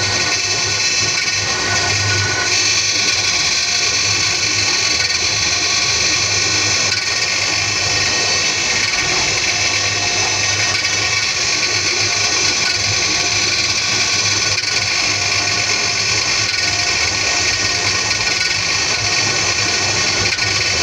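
Alimak rack-and-pinion elevator running steadily: an even mechanical drone with a whine of many steady high tones over a low hum.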